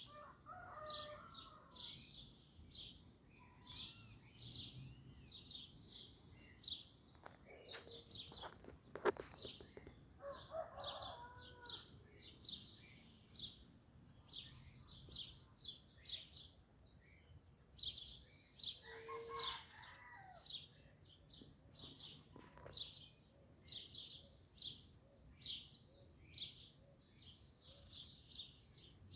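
Small birds chirping over and over in quick high notes, with a lower, longer bird call heard three times. There is one sharp click about nine seconds in.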